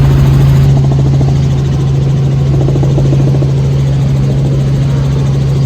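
Helicopter running: a loud, steady low drone with a constant hum. The high hiss drops away under a second in.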